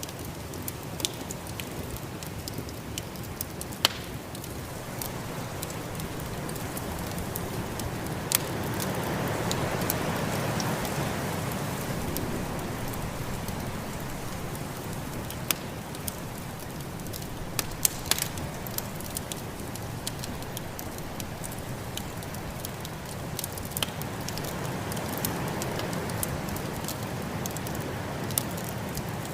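Wood fire crackling with scattered sharp pops, over a steady blizzard wind that swells twice, about ten seconds in and again after twenty seconds.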